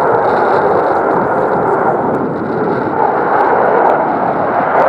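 Eurofighter Typhoon jet with its twin EJ200 turbofans giving loud, steady jet noise, easing slightly about halfway through.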